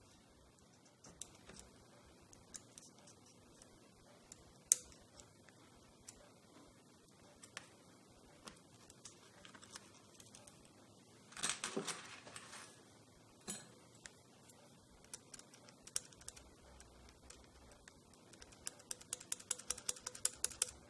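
Loose vibrate module rattling inside an iPhone 8 Plus, its screws having come loose: scattered light clicks, a dense rattle about halfway through, and a fast run of clicks near the end.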